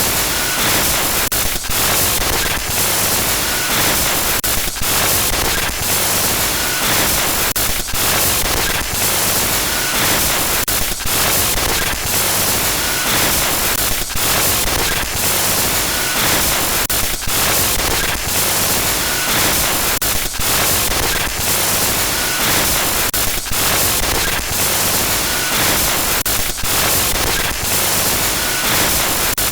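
Loud glitchy static: dense hiss across the whole range, broken by brief dropouts about every second.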